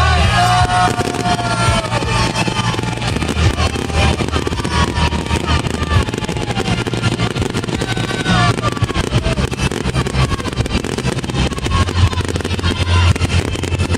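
Fireworks display: a dense, continuous run of crackling pops over a steady low rumble, with people's voices mixed in.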